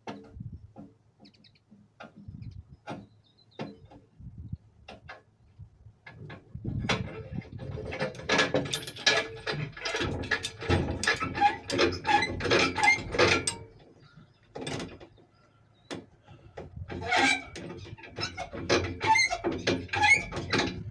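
Hand tools working on metal: scattered clicks, then two long spells of rapid clicking and clattering, one starting about seven seconds in and one near the end.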